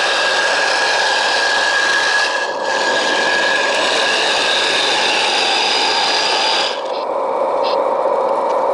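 1/14-scale RC hydraulic vibratory roller running while it compacts an asphalt patch: a steady buzzing whine from its motors and vibration. The sound dips briefly about two and a half seconds in, and its higher part cuts out about seven seconds in.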